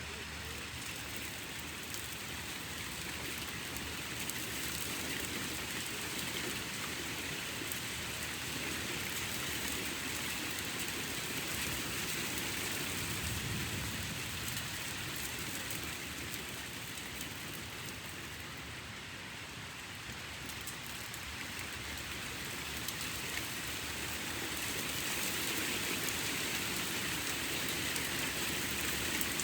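Steady rain falling in a thunderstorm, growing a little louder near the end.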